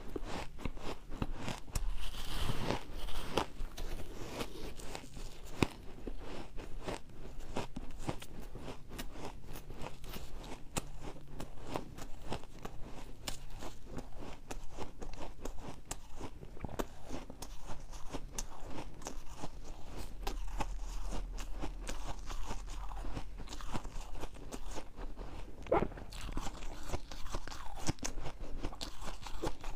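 Refrozen ice being bitten and chewed, a rapid, dense run of crisp crunches and crackles.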